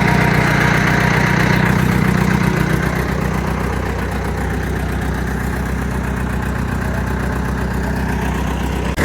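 Classic backhoe's diesel engine idling steadily, a little quieter from about three seconds in.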